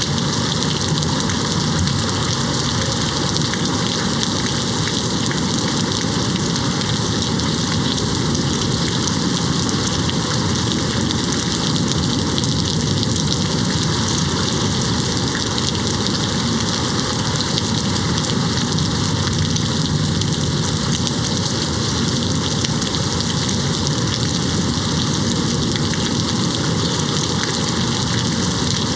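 Steady rain hitting a window, an even unbroken hiss with no thunder strikes.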